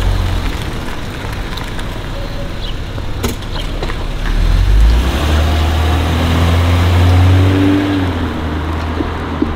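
Vehicle engine running and pulling away, with a steady low rumble and an engine note that rises slowly through the second half.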